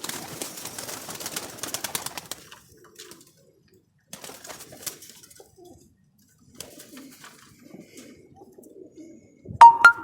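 Pigeons cooing in a loft, with a burst of wing flapping and scuffling in the first two seconds and again around four seconds in, as the birds are caught by hand. Near the end there is a loud click followed by a brief steady ringing tone.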